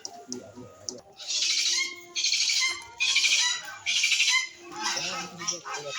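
A bird squawking harshly four times in quick succession, each call a rasping, raucous cry of about half a second, followed by softer chattering calls.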